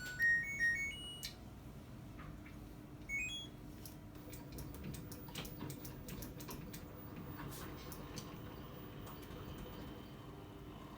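LG top-load washing machine's control panel playing its power-on chime, a quick rising run of electronic beeps, followed about three seconds in by a short two-note button beep. After that, faint clicks over a low steady hum as the machine starts up.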